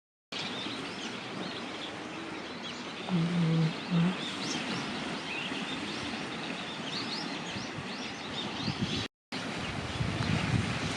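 Small birds chirping over a steady outdoor rush of wind or water. Two short low hums about three and four seconds in are the loudest sounds.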